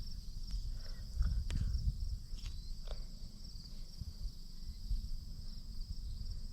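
Insects chirping in a steady, high-pitched pulsing chorus, over a low rumbling noise with a few faint clicks.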